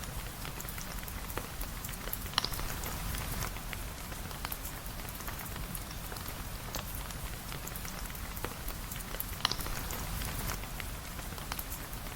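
Steady rain with a dense patter of small drips and ticks over a low rumble, and two sharper, louder pops, about two and a half and nine and a half seconds in.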